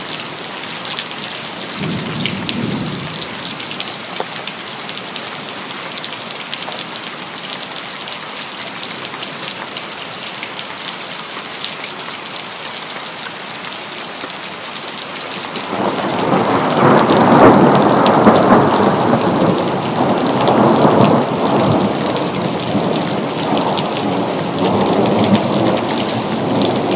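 Steady rain hissing and pattering, with a brief low rumble a couple of seconds in. Then a long peal of thunder breaks out a little past the middle, loudest at its start and rumbling on in waves to the end.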